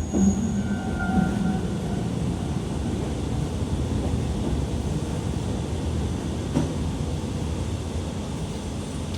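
Chikuho Electric Railway 3000-series articulated electric car running on the rails, a steady low rumble. Faint tones sound in the first two seconds, and there is a single knock about six and a half seconds in.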